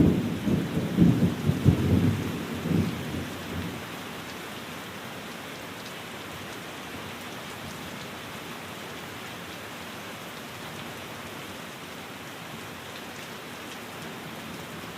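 Steady rain falling on a window pane. A low rumble of thunder is loudest at the start and dies away over the first three to four seconds.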